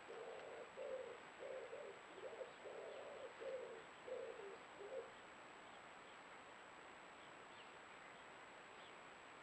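A bird cooing: a series of short, low notes, a little under two a second, that stops about five seconds in. After that only faint background hiss remains, with a few faint high chirps.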